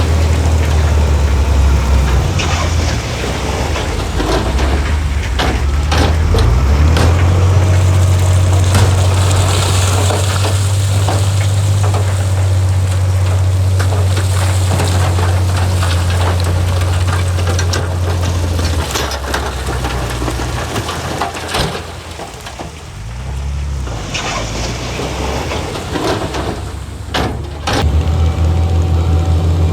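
Heavy diesel engine of earthmoving machinery running loud and low, its note shifting up and down a few times and easing off briefly about two-thirds of the way through. Scattered metallic clanks and knocks sound over it.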